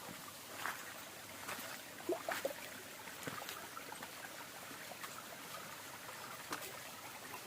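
Small waterfall running down a sloping rock slab like a stream: a steady water hiss with frequent small splashes and gurgles.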